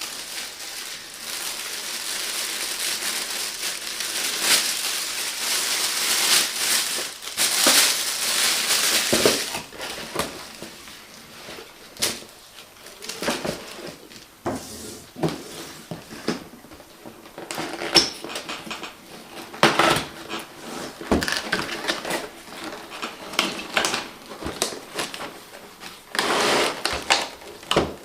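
Packaging and small plastic parts being handled: a continuous crinkling rustle for about the first ten seconds, then scattered clicks and knocks.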